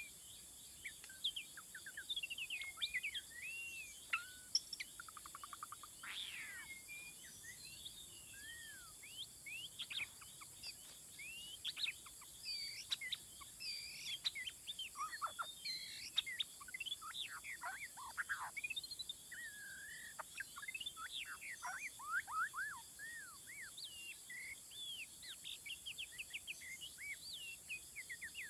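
Several birds calling and singing, with many overlapping short chirps, whistles and quick rising and falling notes throughout, over a steady faint high hiss.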